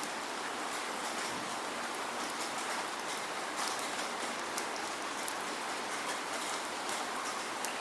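Steady rain without thunder, an even hiss with many small drop ticks scattered through it.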